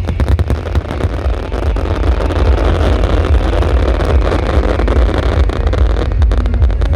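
Loud electronic dance music with a heavy, distorted bass, with a swelling crowd noise in the middle and scattered sharp crackles.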